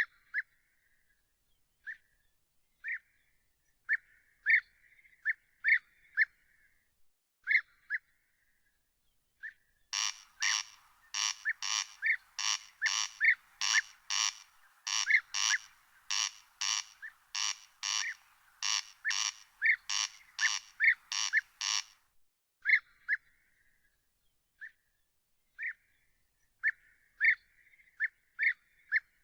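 An animal calling by a river: short, sharp calls at irregular intervals, then from about ten seconds in a fast, even run of harsh, rasping calls, about two a second, lasting some twelve seconds before the sparse calls resume.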